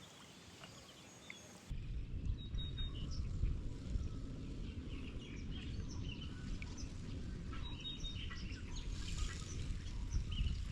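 Wind buffeting the microphone, a steady low rumble that starts suddenly about two seconds in, with birds chirping over it.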